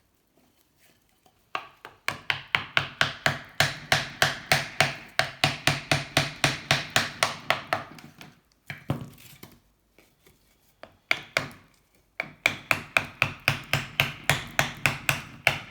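A hammer tapping wooden wedges into the seam of a Honda C70's aluminium engine cases to split them, in rapid even knocks about four a second. Two long runs of tapping with a short pause between.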